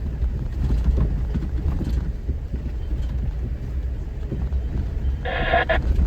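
Off-road vehicle driving over a rough mountain trail: a steady low rumble with many small knocks and rattles. A brief high-pitched tone sounds about five seconds in.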